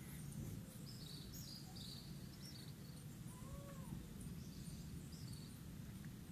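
Faint outdoor ambience: a steady low rumble with small birds chirping, and one short rising-and-falling animal call, cat-like, about three and a half seconds in.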